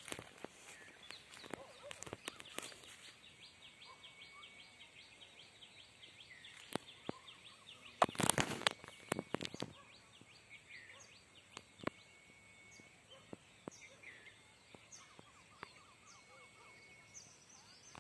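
Forest ambience: many small birds chirping and calling in quick, short notes, with scattered sharp clicks. About eight seconds in comes a louder harsh noise lasting about a second.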